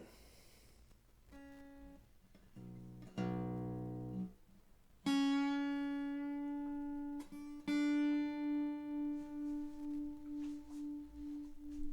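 Seagull S6 acoustic guitar's new steel strings plucked one at a time while retuning after restringing. Two brief lower notes come first. About five seconds in, the high D string is plucked, then plucked again, and rings long with a slow wavering pulse in its level.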